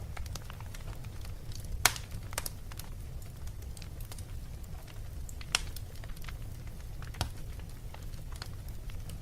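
Wood fire crackling in a fireplace: scattered sharp pops and snaps over a steady low rumble, with louder pops about two seconds in and again just past halfway.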